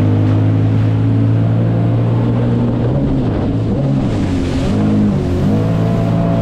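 Jet ski engine running under throttle, holding a steady pitch for about three seconds, then dipping and climbing again as the throttle is eased and reopened. A brief hiss comes about four seconds in.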